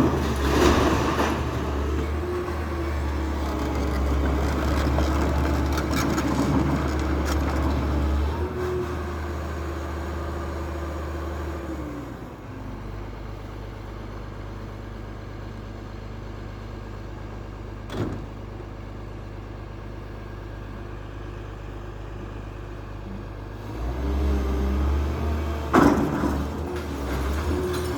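Demolition machine's engine running steadily, working harder for the first twelve seconds, easing down to a lower, quieter run, then picking up again near the end. A single sharp knock comes about two-thirds of the way in, and there is clattering near the end.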